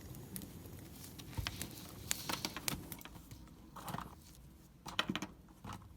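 Wood fire crackling: irregular sharp pops and snaps over a low hiss, the hiss fading about halfway through while scattered clicks go on.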